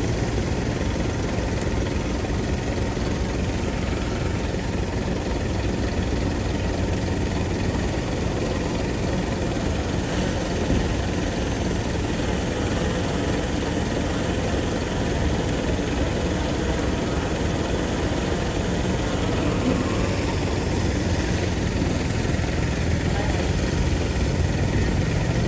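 Heavy diesel engine of earthmoving machinery running steadily at a constant speed, a low even drone with no revving.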